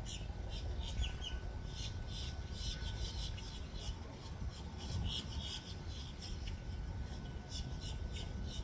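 Birds chirping in short, irregular calls over a steady low rumble, with a faint steady whine underneath.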